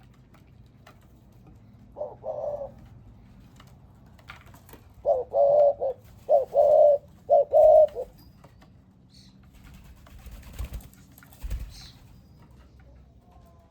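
A dove cooing: one short low coo, then after a pause three longer coos in quick succession. Two soft low thumps follow near the end.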